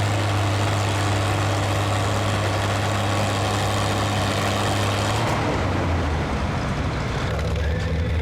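Farm stock pulling tractor's diesel engine running with a strong steady note that drops and turns rougher about five seconds in, as the engine comes off the throttle.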